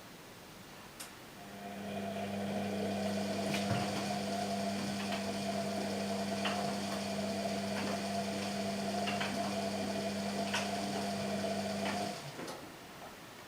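Washing machine motor turning the drum: a steady hum that starts about a second and a half in and cuts off abruptly near the end, with scattered light clicks over it.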